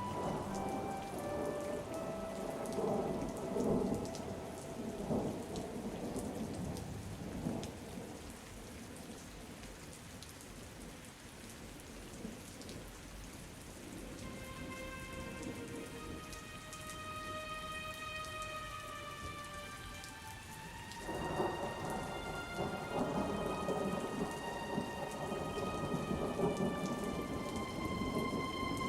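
Steady rain with rolling thunder, which swells in the first few seconds and again from about 21 seconds in. A soft melody of held notes plays quietly over the rain.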